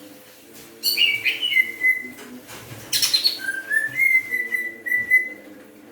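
Cucak ijo (green leafbird) of the Kalimantan type singing bursts of clear whistled phrases that slide and trill, about three bursts: the bird back in song after a bout of Newcastle disease (tetelo). A faint steady hum runs underneath.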